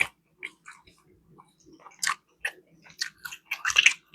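Close-up mouth sounds of a person eating sticky barbecue chicken: biting, wet chewing and lip smacks in irregular short clicks, with a louder cluster about two seconds in and near the end.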